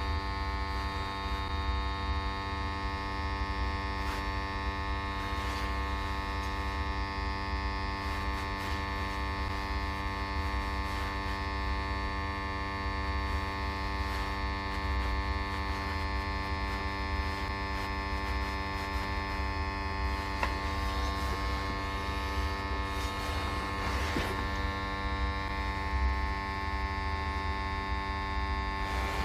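A steady hum: a stack of even tones over a low rumble, with a few faint clicks now and then.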